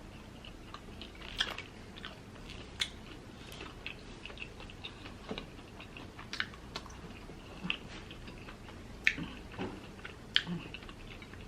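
Close-up chewing and biting of a Korean mozzarella corn dog, with the crisp batter crunching in irregular soft crackles and sharp clicks; a few louder crunches stand out.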